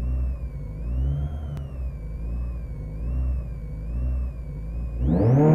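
Citroën Saxo VTS rally car's four-cylinder engine running at held revs that rise and fall roughly once a second, then revving hard and climbing steeply near the end as the car launches.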